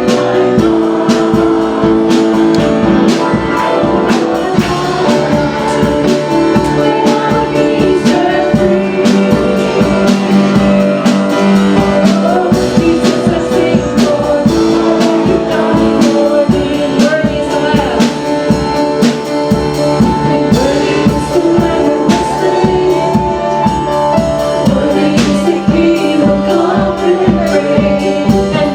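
Worship music: singing over a band with held chords and a steady drum beat.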